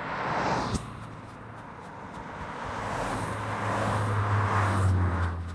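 A car driving past on the road: its tyre and engine noise with a low hum swells over several seconds and fades near the end.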